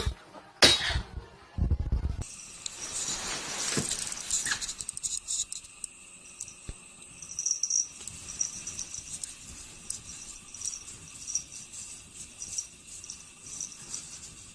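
Light metallic jingling, coming irregularly over a steady high hiss, after a few loud sudden sounds in the first two seconds.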